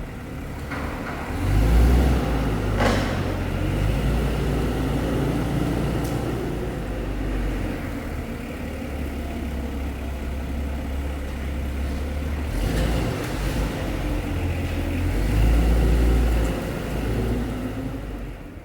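A heavy vehicle's engine running, its low rumble swelling and easing as it revs up and down, loudest about two seconds in and again near the end.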